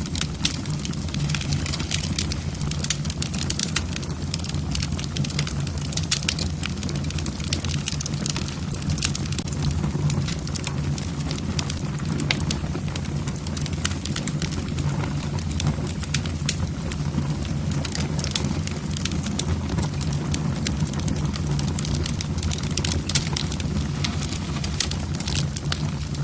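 Logs burning in a fireplace: frequent sharp crackles and pops from the burning wood over a steady low rumble of the flames.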